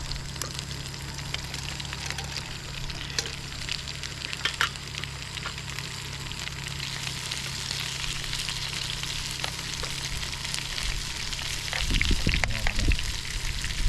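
Burgers frying in a pan on a camping gas stove, a steady sizzle over the burner's low hum, with a few clatters of the pan near the end.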